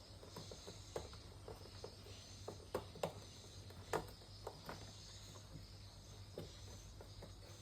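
Scattered light clicks and taps of parts being handled and fitted while a new gearbox goes into a twin-tub washing machine, over a faint steady low hum.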